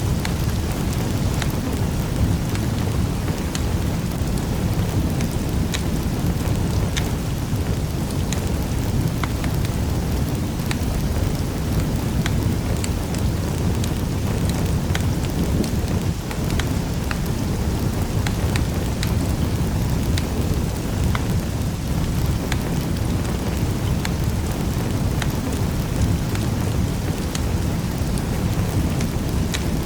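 Wood fire crackling in a fireplace: a steady low rumble of burning with frequent sharp snaps and pops scattered irregularly throughout.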